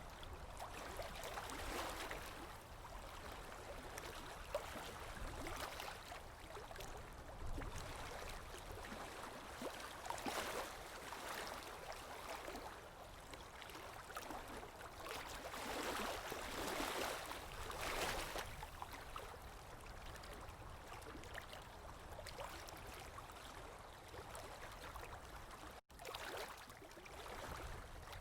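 Running water trickling and gurgling, swelling louder every few seconds. It cuts out for an instant a couple of seconds before the end.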